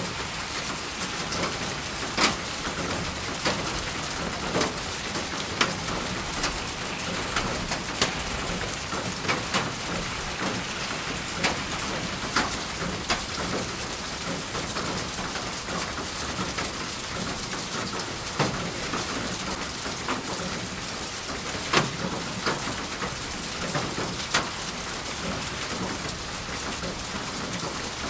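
Steady rain falling, with louder individual drops striking a surface close by at irregular moments, roughly once a second.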